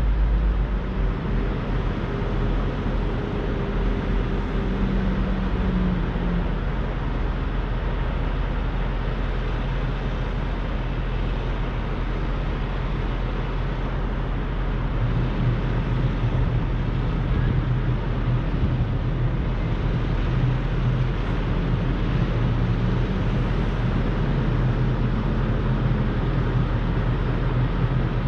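Semi-truck engine and road noise running steadily, with the engine note rising and falling near the start and again near the end.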